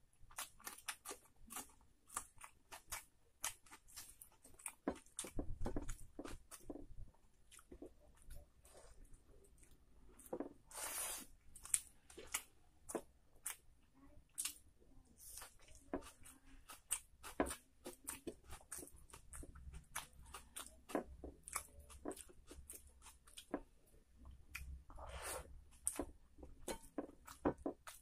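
Close-miked eating sounds of rice and curry eaten by hand: wet chewing and lip smacks in an irregular run of sharp clicks, with a few crunchy bites and the squish of fingers mixing the food on the plate.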